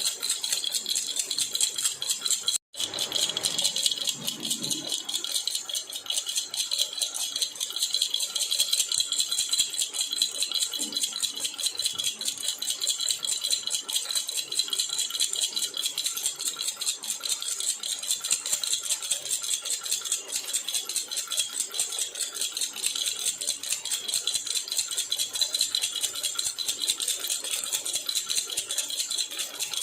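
A silver jhunjhuna baby rattle shaken steadily, giving a rapid, continuous jingling rattle. There is a split-second break about three seconds in.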